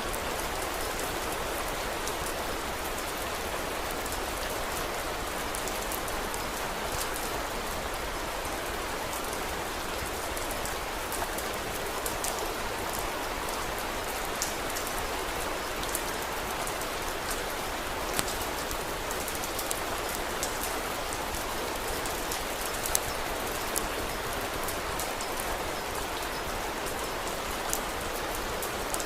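Steady rain falling, an even hiss with scattered sharp clicks throughout.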